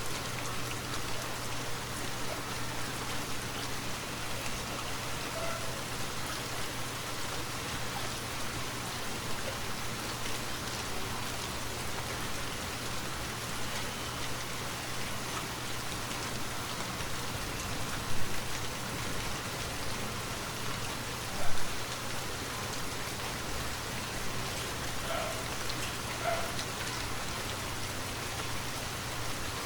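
Steady rainfall, an even hiss of many drops. Two brief, louder moments stand out a few seconds apart in the second half.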